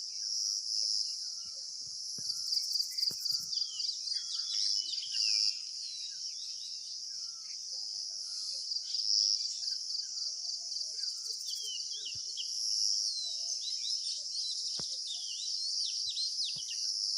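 A steady, high-pitched insect chorus with a fast pulse, with many birds chirping over it in short rising and falling calls.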